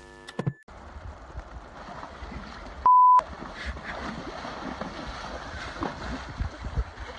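A single short, loud, steady beep about three seconds in, the flat tone of a censor bleep, over a low, steady background of noise.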